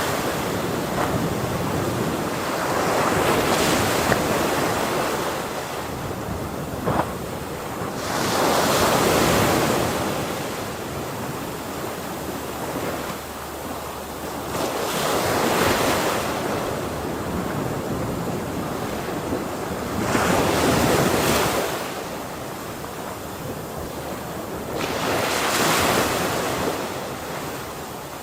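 Ocean waves breaking on a shore, a swell of surf every five to six seconds over a steady wash, with wind on the microphone.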